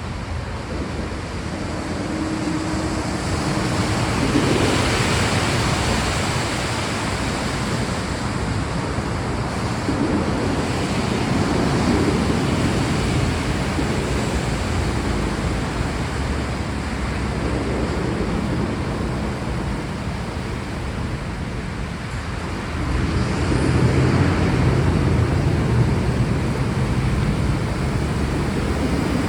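Steady rainfall, a dense even hiss, with a low rumbling swell about four seconds in and a louder one near the end.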